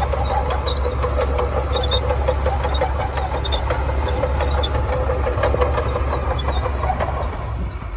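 Shantui bulldozer's diesel engine running steadily under work, with light clicks and rattles throughout.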